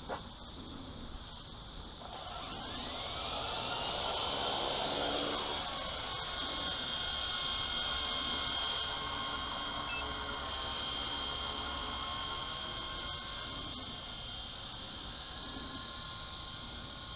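Small electric RC helicopter (WLToys V915) spooling up: a whine that rises steeply in pitch about two seconds in, then settles into a steady high-pitched whine and rotor whir as it flies.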